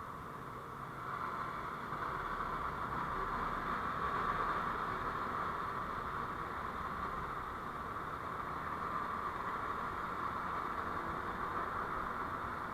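Steady road and running noise of a moving vehicle picked up by a dashcam microphone, growing a little louder about a second in.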